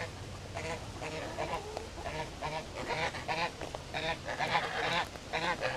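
Domestic geese giving a steady run of short honks, about three a second.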